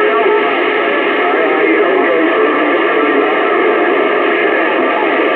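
CB radio receiver putting out steady, loud static, with faint, garbled voices and wavering tones of distant overlapping transmissions coming through the noise.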